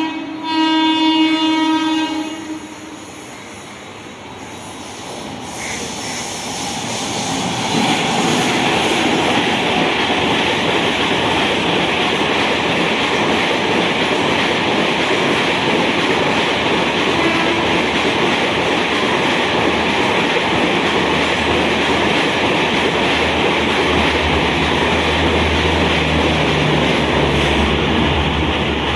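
Locomotive horn sounding a long blast that ends about two seconds in. Then an Indian Railways express train comes up and passes at speed, a loud steady rush of wheels on rail from about eight seconds on.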